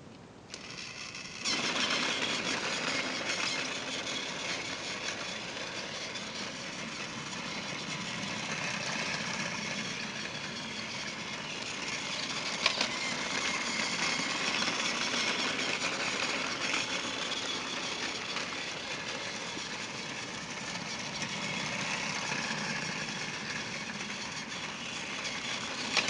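Battery-powered TrackMaster Thomas toy engine running along plastic track, its small electric motor whirring and its wheels rattling on the track pieces. The sound gets louder about a second and a half in, with one sharp click a little past the middle.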